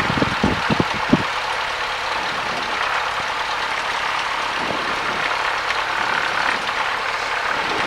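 Cessna 172's piston engine idling, heard as a steady drone inside the cockpit, with a few light knocks in the first second.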